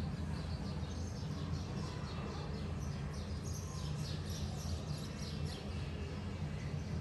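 Small birds chirping in quick repeated high notes over a steady low rumble.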